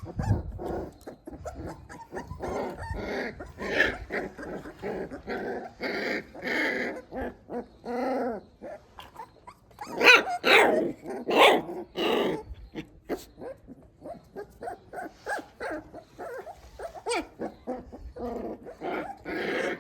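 Young puppies whimpering and yelping in a long run of short, high cries, loudest about ten to twelve seconds in.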